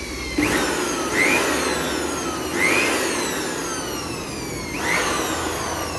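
A freshly rebuilt Mahindra Logan turbocharger spun up by blasts of air during its post-rebuild check, four times. Each time a whine rises sharply, then falls slowly as the shaft coasts down.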